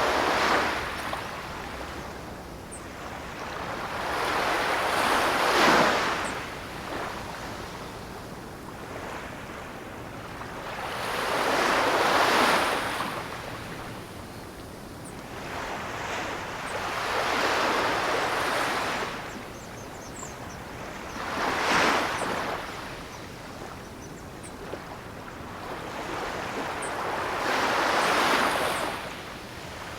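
Ocean surf: waves breaking and washing in, each surge rising and falling away, one about every five to six seconds.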